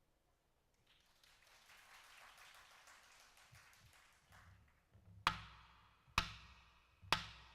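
A quiet pause, then three sharp percussion strikes about a second apart, each ringing briefly, in a Korean traditional music performance.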